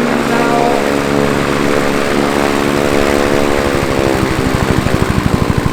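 Helicopter running close by: a steady engine and rotor tone with a slight change in pitch, and then, from about midway, the main rotor's fast, even blade slap growing louder.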